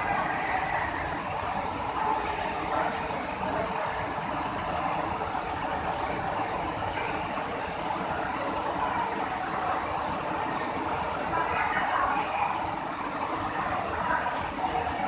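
Very heavy rain pouring down, a dense, steady hiss.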